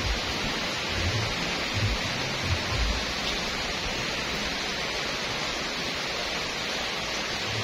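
Steady rain falling on a wet paved road and surrounding trees, an even hiss, with a few brief low rumbles in the first three seconds.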